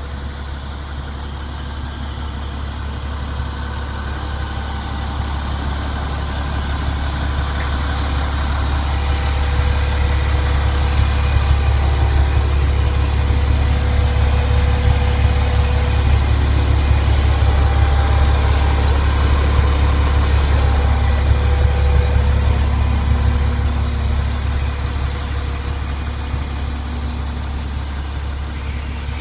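The International DT466E diesel engine of a 1997 International 4700 rollback tow truck running steadily, growing louder toward the middle and easing off again.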